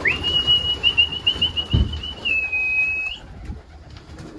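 A person whistling one held note of about three seconds, with a warbling trill in the middle, a slight dip, and an upward slide at the end. It is a pigeon fancier's call to bring racing pigeons into the loft.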